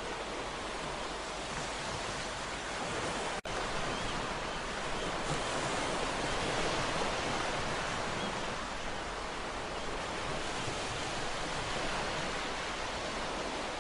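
Ocean surf washing in a steady, continuous hiss, swelling slightly midway through. There is a momentary drop-out in the sound about three and a half seconds in.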